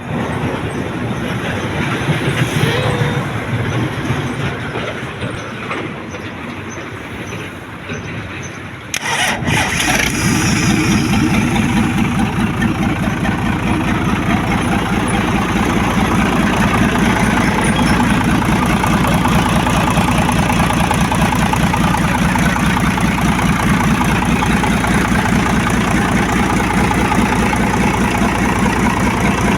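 An engine being started: it is cranked with uneven noise for about nine seconds, catches suddenly, and then runs at a steady idle.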